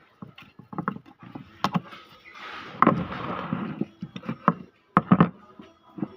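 Irregular knocks and clicks, with a stretch of rustling scrape about two and a half seconds in.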